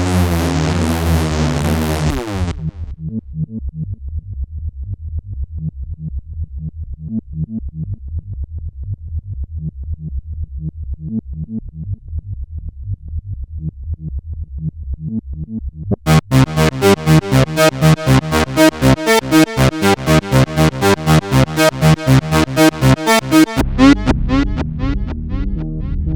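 Roland SE-02 analog monosynth playing sequenced factory preset patches, changing from patch to patch. It starts with a bright tone with a wobbling filter sweep, which cuts out after about two seconds into a low pulsing bass line. Near the middle a loud, bright run of fast repeated notes comes in, and near the end it gives way to a deeper bass patch.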